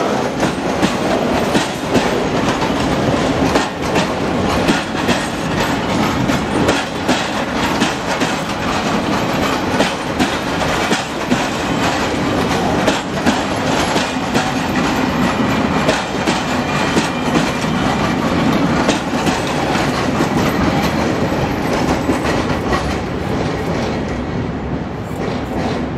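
Freight train of open coal wagons rolling past, with a steady rumble and wheels clattering over the rail joints in quick clicks. The sound eases a little near the end as the last wagons go by.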